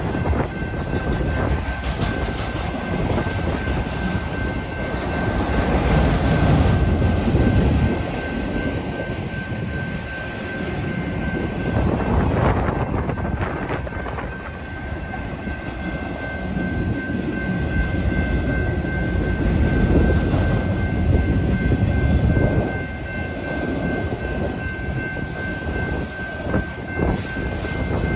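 Freight train of auto rack cars rolling past: a steady rumble of wheels on rail that swells and eases, with a thin high-pitched tone held throughout.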